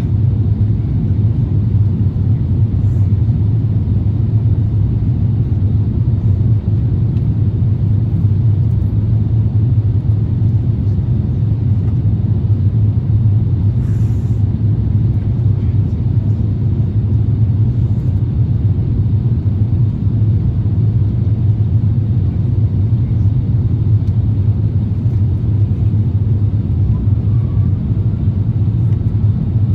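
Cabin noise aboard an Airbus A350-1000 airliner: a steady, loud, low rumble of the engines and airflow that does not change.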